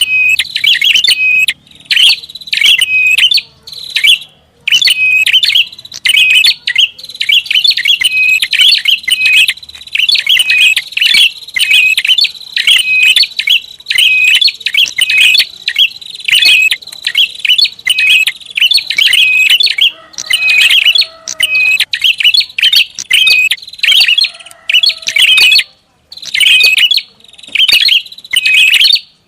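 Prinia (prenjak) calling rapidly and noisily: loud, high-pitched chattering notes repeated in quick runs with only brief pauses, the busy call used as a lure to draw in wild prinias.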